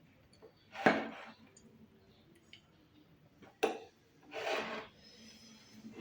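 A person eating a Nepali thali meal: a sharp bite sound about a second in, another just past three and a half seconds, and a short noisy chewing burst around four and a half seconds.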